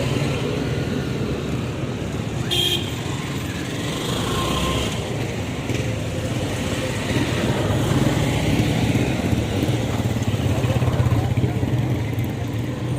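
Road traffic: motorcycle and car engines running steadily, with a brief high horn beep about two and a half seconds in.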